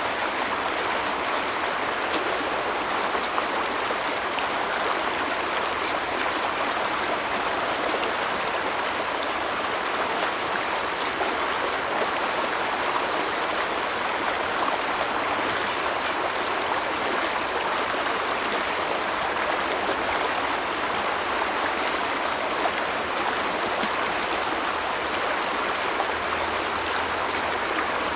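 A stream running over rocks: a steady, even rush of flowing water.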